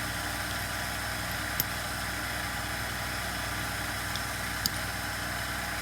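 Steady mechanical background hum and hiss, with a couple of faint light clicks, about one and a half and four and a half seconds in.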